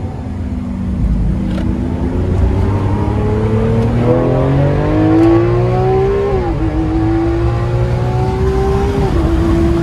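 Lamborghini Aventador's V12 accelerating hard with its exhaust valves open in Corsa mode, the engine note rising steadily through the gear, then dropping sharply with an upshift about six and a half seconds in and again near the end before climbing once more.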